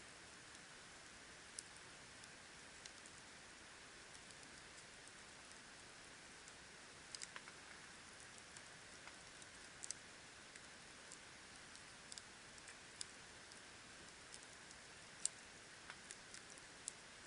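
Wood campfire burning: a faint steady hiss with scattered sharp crackles and pops, a small cluster about seven seconds in and the loudest pop near fifteen seconds.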